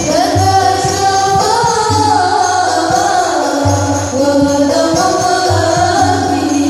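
Sholawat devotional song: voices sing a long, gliding melodic line over repeated low drum beats and jingling percussion.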